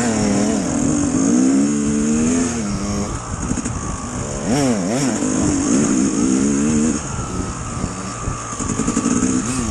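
Dirt bike engine running under throttle, its pitch rising and falling as the rider opens and closes the throttle, with a sharp drop and climb about five seconds in.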